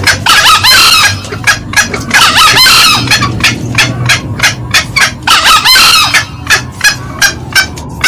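Green junglefowl calling: a fast series of short, sharp cackling notes, about three or four a second, broken three times by a longer, harsher call. This is the loud male-and-female call used as a lure to draw wild junglefowl.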